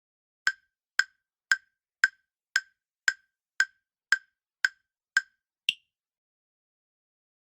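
Countdown timer sound effect: eleven short, sharp ticks at about two a second, the last one higher in pitch, timing the pause for the quiz answer.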